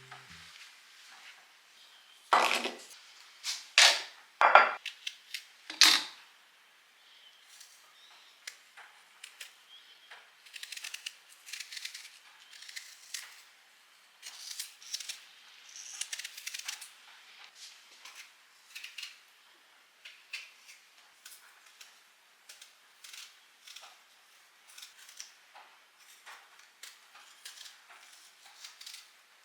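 Kitchen utensils being handled: a few sharp clicks and knocks within the first few seconds, then a long run of light, irregular tapping and scraping.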